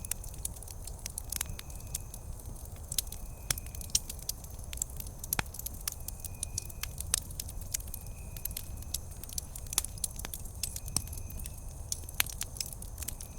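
Wood campfire crackling: frequent sharp pops and snaps at irregular intervals over a steady low rumble of the burning fire.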